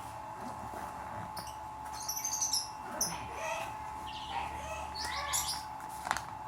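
Small birds chirping in short high calls, clustered about two seconds in, again around three to four seconds, and near five seconds. A steady faint tone runs underneath, and a sharp click comes near the end.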